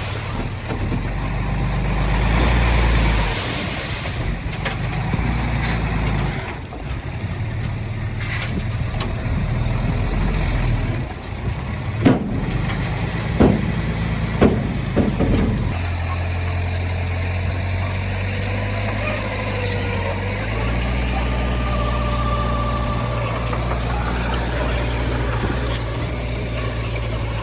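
Heavy diesel earthmoving machinery running, with a rushing noisy stretch early on and four sharp metallic clanks about halfway through, then settling into a steady low engine drone.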